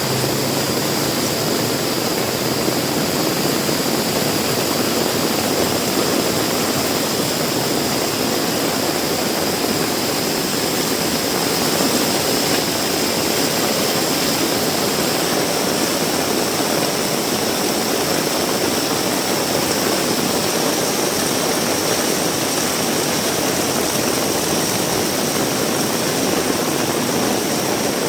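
Heavy rain falling steadily, a loud, even rushing hiss with no breaks.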